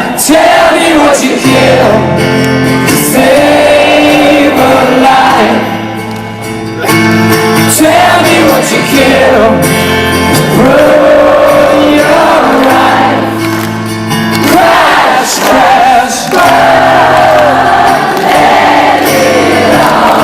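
A live rock song with guitar chords under long, sustained wordless singing, and a crowd singing along.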